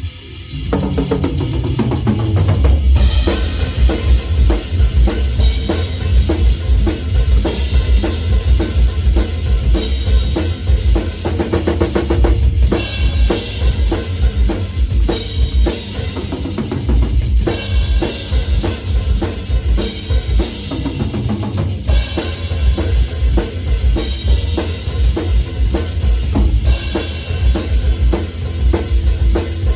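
Drum kit played fast in a heavy metal song, with rapid bass drum beats, snare and cymbals under distorted guitar; the full drumming comes in about two seconds in.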